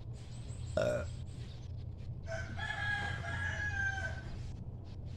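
A rooster crowing once: one long call of about two seconds that falls slightly in pitch at the end. A brief shorter call comes just under a second in, over a steady low hum.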